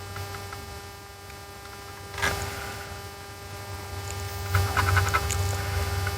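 Steady electrical hum, with a brief crackle about two seconds in and a run of small ticks and crackles about halfway through.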